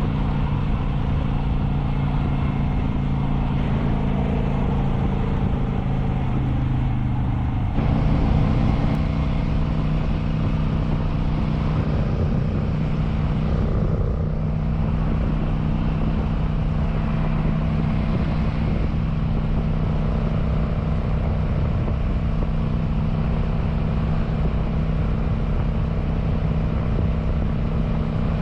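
Kawasaki Vulcan 900's V-twin engine running at a steady cruise, with wind and road noise on the rider's microphone. About eight seconds in, the engine note sags and then steps back up, with a brief rise in loudness.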